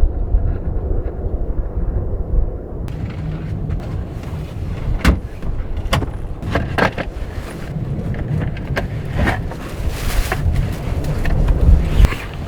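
Strong gusting wind rumbling heavily on the microphone, broken by several sharp knocks and clatters.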